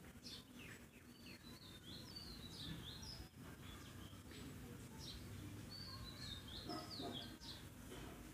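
Faint bird song in the background: two phrases of quick high chirping notes, one starting about a second in and another about five seconds in, over a low steady room hum.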